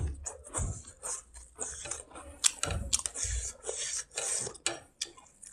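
A string of short, irregular chewing sounds from a person eating rice by hand, picked up close by a clip-on microphone, with fingers scraping and mixing rice against a plate.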